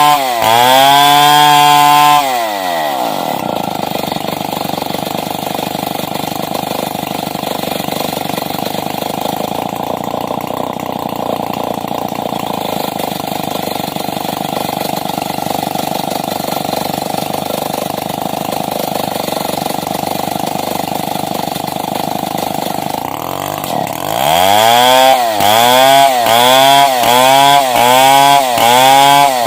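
Stihl 070 two-stroke chainsaw running at high revs, then dropping to a steady idle about two seconds in. Near the end it is revved up again in quick repeated surges, about one every three-quarters of a second.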